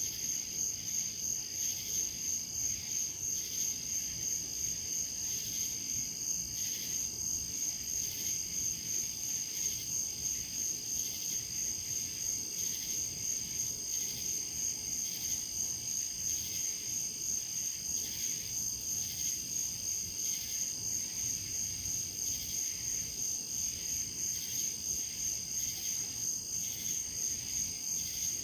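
Insects calling in a steady high-pitched chorus, pulsing evenly without a break.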